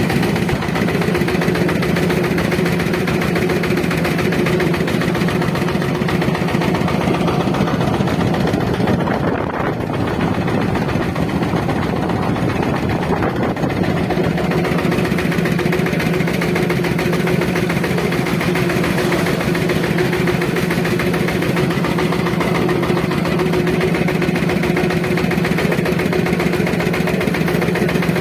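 Engine of a bhotbhoti, an improvised engine-driven vehicle, running steadily while it travels, with a fast, even chugging. Its steady note wavers and falls off a little for a few seconds around the middle before settling again.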